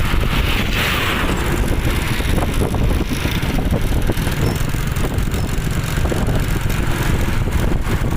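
A truck on the move: steady engine and road noise, mostly a low rumble.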